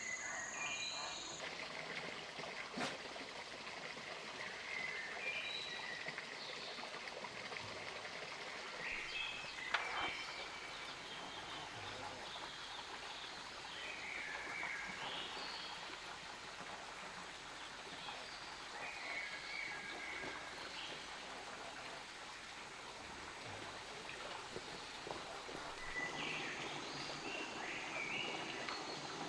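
Forest ambience: a steady rushing like running water, with short bird chirps now and then. A high insect drone stops about a second and a half in, and there are two sharp clicks, one early and one about ten seconds in.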